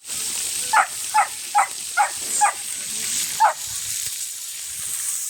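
An animal giving six short, sharp calls in quick succession, about two or three a second, over the steady hiss of food frying.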